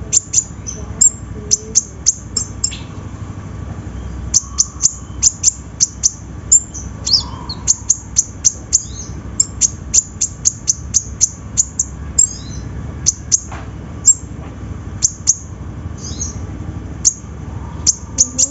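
Kolibri ninja sunbird calling: rapid runs of sharp, very high chips, several a second, mixed with a few short falling notes, broken by brief pauses.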